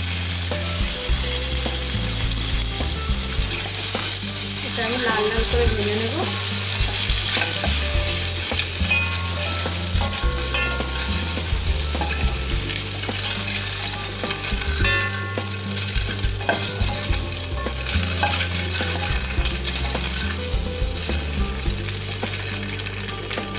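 Hard-boiled duck eggs sizzling steadily in hot mustard oil with turmeric, turned over and over with a spatula in the pot.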